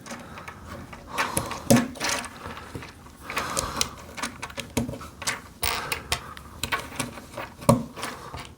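Lego bricks being handled and pressed together: irregular sharp clicks and taps of small plastic pieces.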